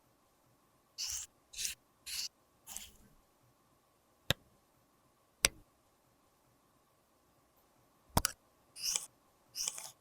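Hand work on a cosmetic product with small tools: four short scraping or cutting strokes, then sharp clicks a second or so apart, a double click, and two more short strokes.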